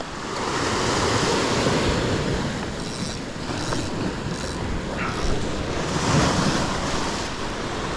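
Sea surf washing and breaking against shore rocks, with wind buffeting the microphone.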